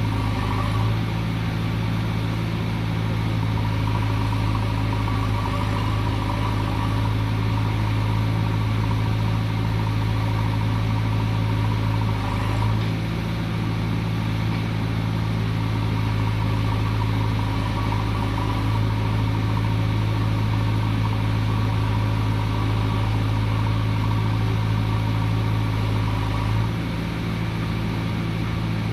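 Heavy diesel engine of earthmoving machinery running steadily with an even, low hum. The note shifts briefly a few times.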